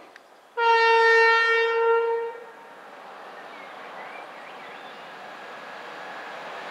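Diesel locomotive horn sounding one steady blast of just under two seconds. A faint rumble of the train runs on after it.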